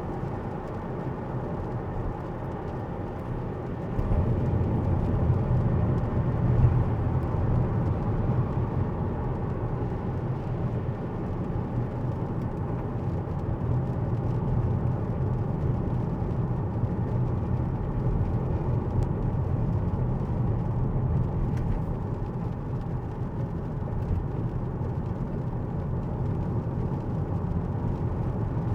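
Tesla driving on a wet road in the rain: steady road and tyre noise with a low rumble, which gets louder about four seconds in and then holds.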